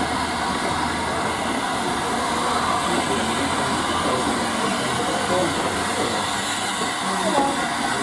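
Steady running noise of a railway train heard from inside a moving carriage, with faint voices underneath.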